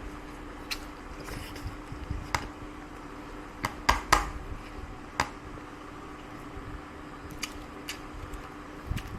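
Close-up eating sounds: chewing with scattered sharp clicks and taps, such as utensils or hands on a plate, the loudest few close together about four seconds in, over a steady low hum.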